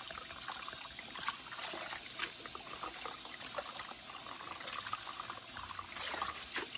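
Wood fire crackling, with many small sharp pops scattered over a steady hiss, like chestnuts bursting.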